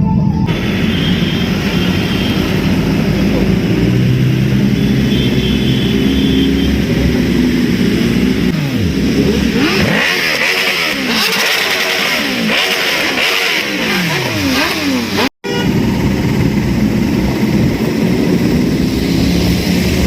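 Several motorcycle engines running and revving together, their pitches rising and falling as bikes go by. The sound cuts out abruptly for an instant about 15 seconds in.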